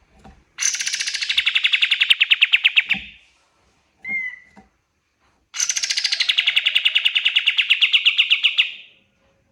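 Kapas tembak songbird singing two long, rapid trills of about ten sharp notes a second, each lasting about three seconds, with a short single call between them.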